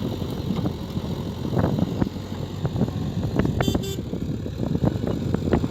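Diesel engine running with frequent clattering knocks, and a brief horn toot about three and a half seconds in.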